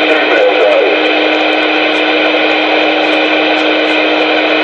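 CB radio receiver carrying a keyed-up transmission with no voice: loud hissing static and noise with a steady low tone held through it.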